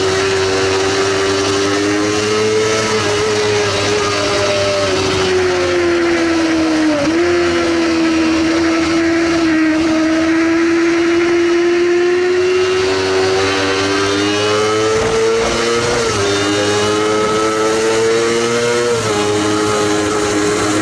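Sportbike engine running at high revs under way, with a steady high-pitched note. The note climbs slowly and drops sharply twice in the second half, as at upshifts.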